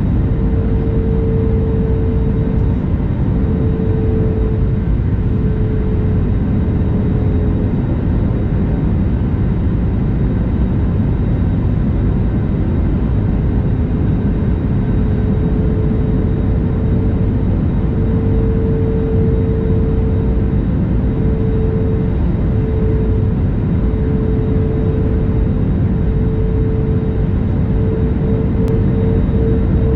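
Airbus A320neo cabin noise in flight: a steady rush of engine and air noise with a mid-pitched hum that swells and fades, dropping away for a few seconds in the middle before coming back.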